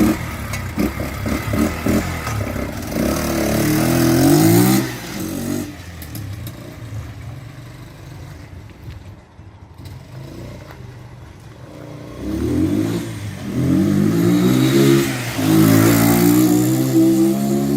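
The Racer RC150-GY's 150 cc single-cylinder engine, cold just after a kick start, revved up in rising blips of the throttle to clear it out, dropping back to idle in the middle, then revved again several times near the end.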